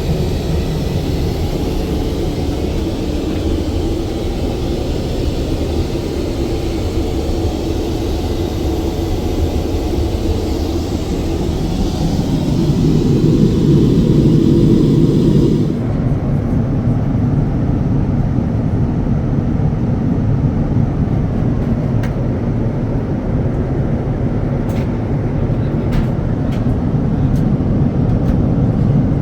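Steady rumble and hiss inside the cabin of a Boeing 787-9 in motion. It swells for a few seconds, then changes abruptly about two-thirds of the way through, where the high hiss drops away. A few faint clicks follow.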